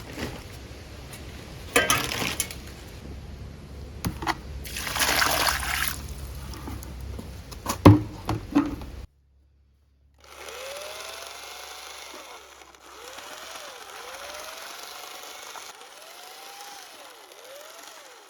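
Hand plastering with clay plaster: irregular scraping, slapping and sharp knocks of a trowel and wet clay on brick. After a sudden break about nine seconds in, a steady whirring noise with a swooping tone that repeats every second or so.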